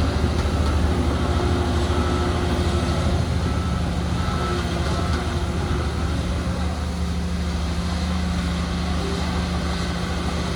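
Heavy diesel earthmoving machinery running steadily with a low, even drone. A few faint short beeps, like a reversing alarm, sound in the first half.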